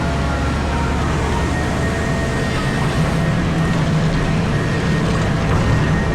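Komatsu PC4000 hydraulic mining excavator running under load, heard from its cab: a steady, loud low drone of the power plant and hydraulics, with a thin high whine coming in about a second and a half in.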